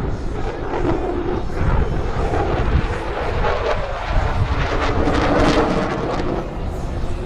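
F-16 fighter jet's turbofan engine running loud and steady through the takeoff run, swelling about five seconds in.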